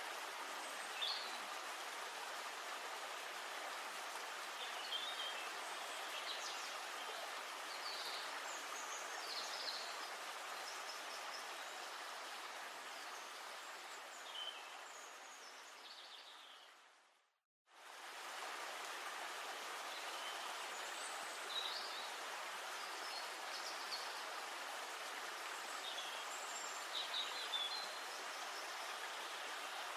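River ambience: a steady hiss of moving water with birds chirping now and then. About halfway through, the sound fades out to silence for a moment and then comes back.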